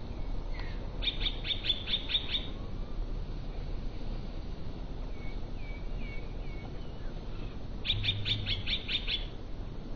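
Songbirds singing: a quick trill of about seven high notes about a second in and again near the end, with softer chirps in between.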